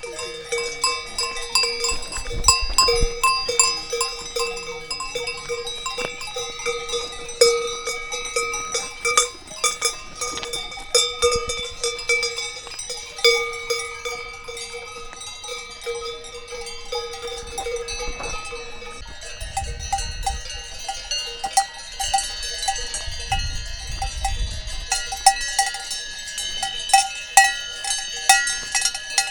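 Many cowbells on grazing cows ringing together, bells of several different pitches clanking irregularly. The mix of bells changes about two-thirds of the way through.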